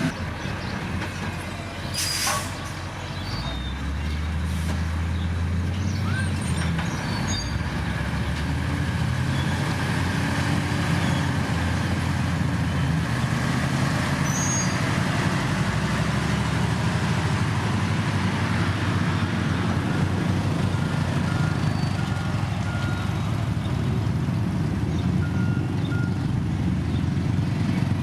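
Heavy diesel construction machinery running steadily, growing louder a few seconds in. There is a short sharp noise about two seconds in, and a few short beeps in the last third.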